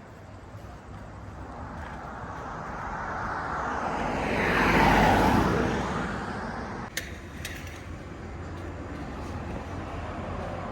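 A road vehicle passing close by, its noise swelling to a peak about halfway through and then fading, over a steady street-traffic rumble. A single sharp click comes just after the pass.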